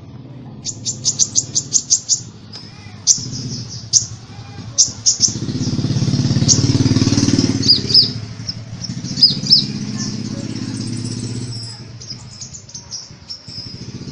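Sunbird song: rapid, sharp, high-pitched chirps and short trills, with a fast run of about nine chirps near the start. A low engine-like hum swells in the middle and fades.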